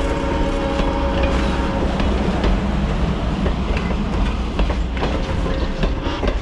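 Steam whistle of former Norfolk and Western 475, a 4-8-0 steam locomotive, holding one chord and cutting off about two seconds in, then the train rolling past with the wheels clicking over rail joints.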